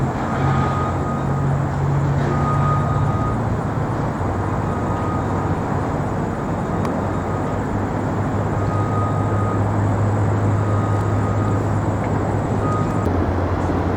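Steady low engine drone over a wash of city noise, with a few short, faint tones repeating on and off.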